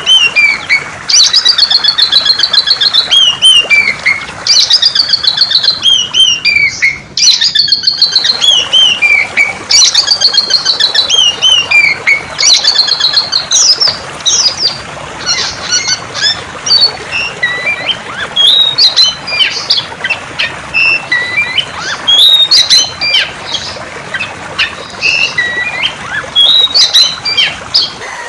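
A songbird singing loudly in repeated falling, trilled phrases, which give way about halfway through to scattered short chirps and whistles. Under the song runs a steady rush of flowing water.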